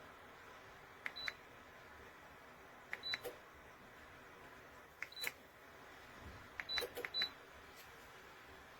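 Five short, high electronic beeps, each preceded by a light click, a couple of seconds apart with the last two close together, over a faint steady hiss: a wall heater's touch-control panel acknowledging button presses.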